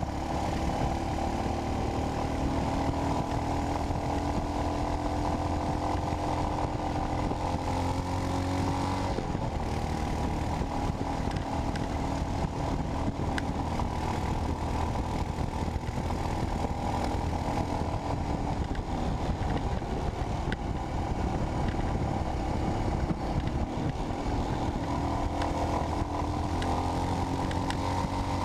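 Royal Enfield Himalayan's 411 cc single-cylinder engine running through a Red Rooster aftermarket exhaust while the bike is ridden on the road. The engine note rises and falls with speed, changes sharply about nine seconds in, and climbs again near the end.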